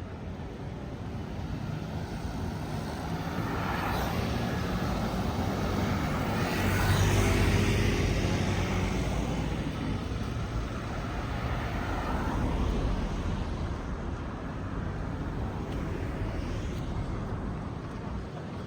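Road traffic passing on a busy city street, with one vehicle swelling up and fading away about seven seconds in and another passing around twelve seconds in.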